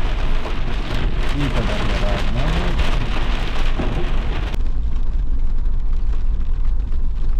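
Steady rain falling, with a deep rumble underneath. About four and a half seconds in, the sound abruptly turns duller as its high hiss drops away.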